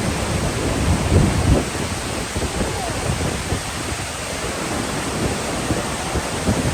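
Bridalveil Fall, a waterfall, giving a steady heavy rush of falling water, with wind buffeting the microphone in low gusts that are strongest a little over a second in.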